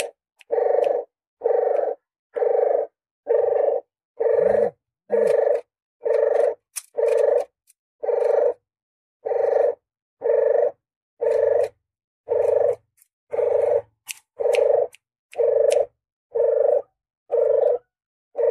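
Puter geni dove (a Barbary dove variety) giving short coos over and over, about one every 0.8 s. It is an edited lure recording with dead silence between calls.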